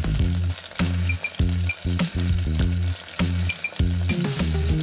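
Potato pieces sizzling as they fry in oil in a kadai, under background music with a steady beat and a prominent bass line.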